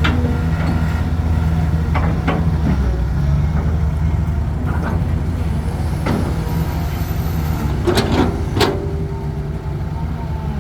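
Heavy diesel engine running steadily, with a few sharp knocks over it, the loudest two close together near the end.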